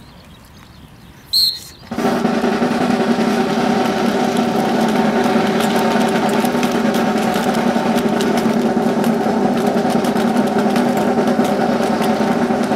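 A short, high whistle blast, then about two seconds in a drill team's snare drums start a sustained drum roll that holds steady and unbroken.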